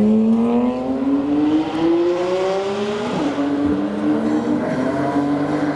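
New Stratos's Ferrari-derived 4.3-litre V8 accelerating, its pitch rising steadily, then dropping at a gear change about three seconds in and pulling again.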